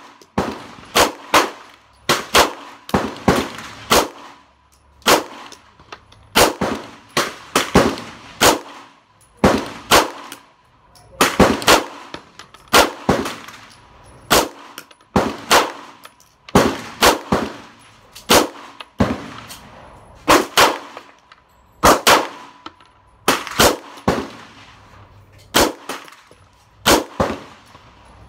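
A direct-blowback 9mm AR-15 pistol with a 5-inch Foxtrot Mike FM9 upper firing semi-automatically. The shots come in a steady string of singles and quick doubles and triples, each followed by a short ringing decay.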